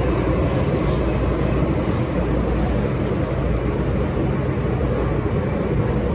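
MTR M-Train electric multiple unit running between stations: a steady rumble of wheels on track with a low hum underneath.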